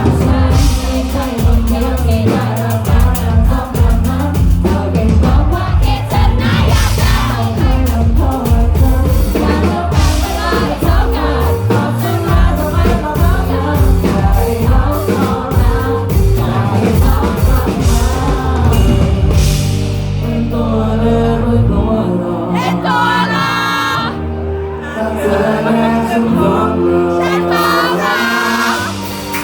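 Live band playing a song with a lead singer, loud drums and bass. About twenty seconds in, the drums drop back and the arrangement thins to held bass notes under the vocal.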